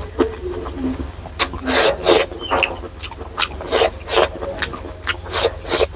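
Close-miked chewing and wet mouth sounds of a person eating, coming in short, irregular strokes.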